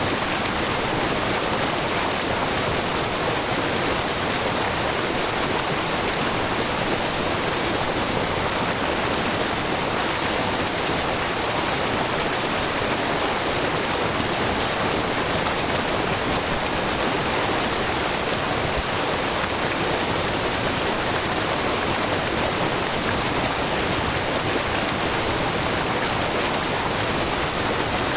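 Wide, low curtain waterfall, many threads of spring water spilling over a rock face into a pool, making a steady, even rush of falling water.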